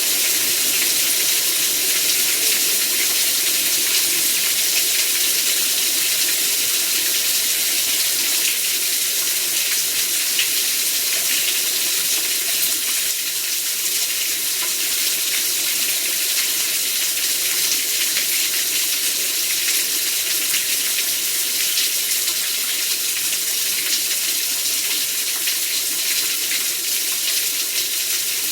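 Heavy rain falling steadily, a dense, even hiss that keeps up without a break.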